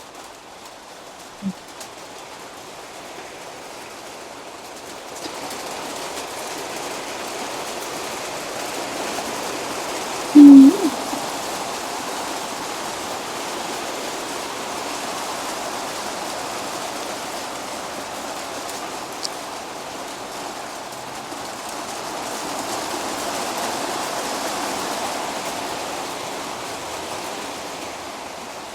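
Rain falling steadily, a hiss that grows heavier about five seconds in. About ten seconds in, a short, loud pitched sound cuts through it.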